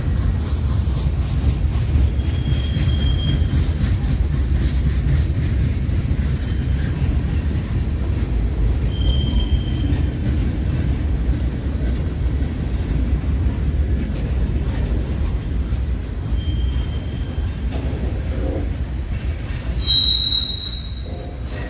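Train rolling past with a steady low rumble of wheels on rail. Brief high wheel squeals come a few times, and the loudest and sharpest comes near the end.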